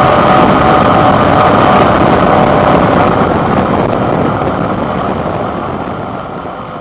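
Suzuki V-Strom 650's 645 cc V-twin engine running, with wind noise, heard through a handlebar-mounted camera's built-in microphone. It gets steadily quieter from about halfway in.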